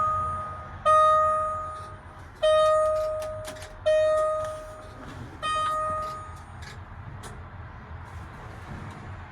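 Cab warning chime of a 2023 Mack Granite truck: a single-pitch ding repeating about every one and a half seconds, each fading away, which stops a little over halfway through, with a few light clicks among the dings.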